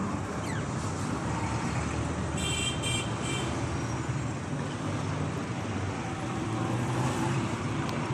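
Steady low rumble of road traffic, with a short high chirping or tooting sound about two and a half seconds in.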